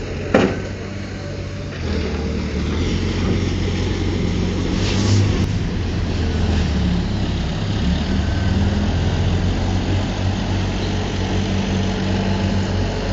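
Diesel engine of a heavy earthmoving machine running steadily, with a sharp knock just after the start.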